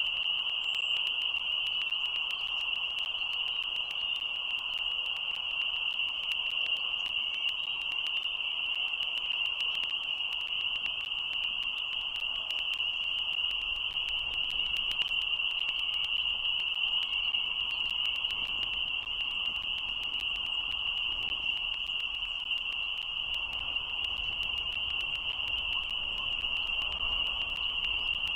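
Chorus of frogs calling together as one steady, unbroken high-pitched drone, over a fainter lower hum.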